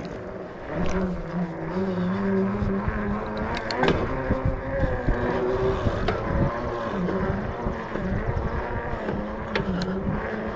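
KTM dirt bike engine running hard at fairly steady revs under a wheelie attempt, the note wavering slightly. It gets louder about a second in.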